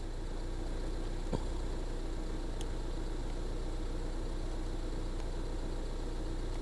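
2015-2023 Mustang EcoBoost's 2.3-litre turbocharged four-cylinder engine idling steadily. A single click sounds about a second in.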